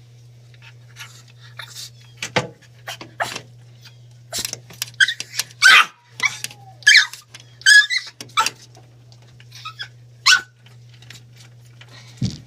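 A dog barking in a string of short, sharp barks, coming irregularly and loudest in a quick run through the middle.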